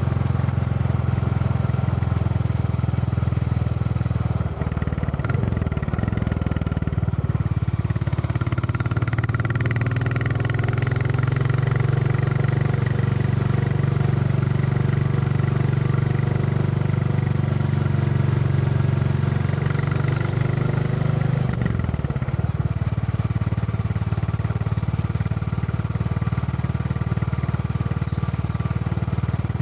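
Royal Enfield Classic 350's single-cylinder engine thumping steadily while riding. The engine note shifts briefly about four and a half seconds in and again near twenty-one seconds.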